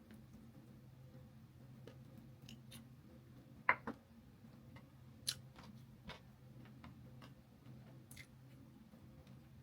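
Faint eating sounds from chewing chicken legs: scattered sharp crunches and clicks, the loudest pair a little under four seconds in, over a steady low hum.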